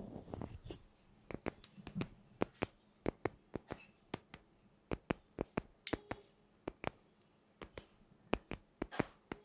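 Sharp, irregular clicks or taps, about three or four a second, with a short pause near the end; a brief rustle fades out at the very start.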